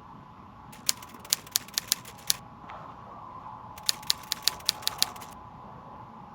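Two quick runs of sharp clicks, about six in each, over a faint steady hum.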